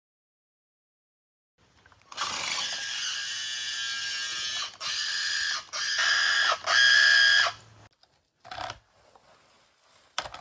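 S-Max radio-controlled car's electric motor and gears whirring and grinding in four bursts of throttle, starting about two seconds in, each cutting off abruptly, the last the loudest. The car no longer drives; its motor has burned out.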